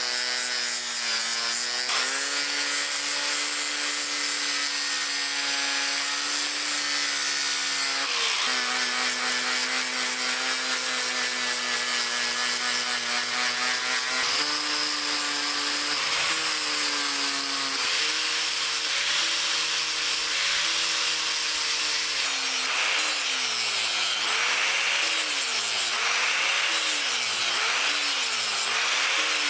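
Hand-held electric power tool grinding on the steel axe head, its motor pitch holding steady, then dipping and recovering as it is pressed on and eased off, about once a second near the end.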